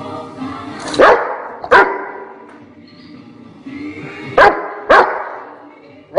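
Rottweiler barking: four sharp barks in two pairs, the first pair about a second in and the second about four and a half seconds in.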